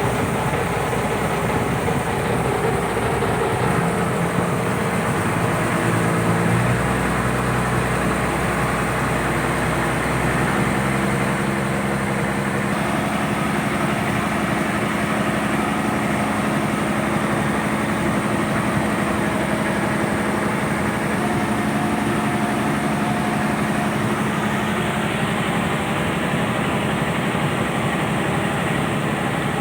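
A purse seine fishing boat's engine running steadily. Its pitch steps up a few times in the first ten seconds, then holds.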